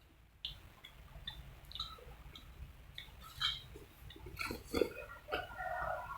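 Eating noodle soup: scattered small clicks and knocks of utensils against a bowl, with mouth sounds. A short pitched sound comes near the end.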